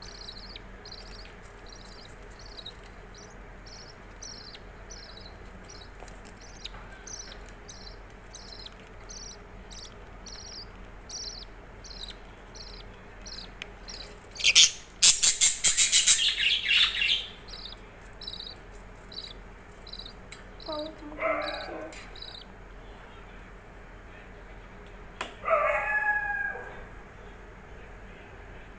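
A bird's short high chirps repeating steadily, about one and a half a second, broken about halfway by a loud harsh burst of two or three seconds, the angry outburst of a bird guarding its young. A few lower calls sound near the end.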